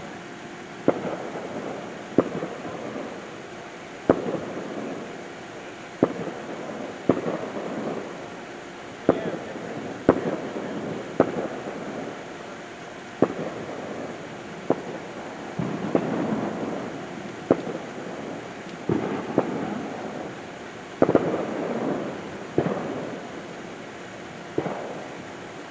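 Fireworks going off: a steady run of sharp bangs, about one every second or two, each followed by a rumbling crackle.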